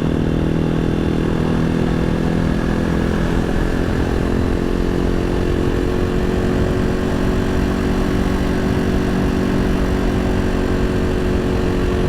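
Janus Halcyon 250's single-cylinder engine running steadily while riding, its pitch shifting a few seconds in and then holding, over a low rush of wind on the mic.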